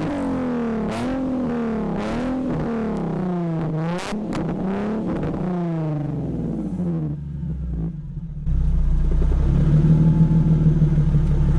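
Hot Nissan VQ35HR V6 on a stock tune, revved in a series of quick blips about one a second. The revs drop about seven seconds in, and the engine settles into a steady, louder idle. The engine is being revved to try to make the exhaust throw flames.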